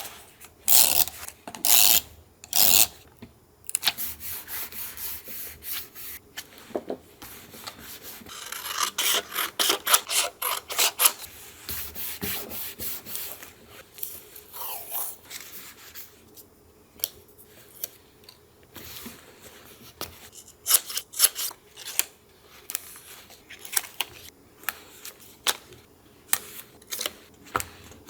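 Paper being rubbed and scraped by hand for a collage, in short strokes. The strokes come in a dense run for several seconds, then sparser, with a string of sharper strokes near the end.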